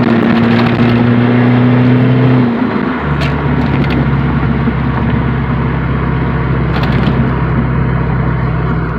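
Straight-piped GM 2.2L four-cylinder of a Chevy Cavalier, running with no muffler. It holds a steady note for about two and a half seconds, then drops in pitch and settles into a steady, lower cruising drone.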